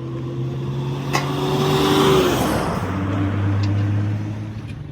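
A motor vehicle passing by on the road: its engine hum and tyre noise swell to a peak about two seconds in, and the engine note drops in pitch as it goes past, then fades. A single sharp click about a second in.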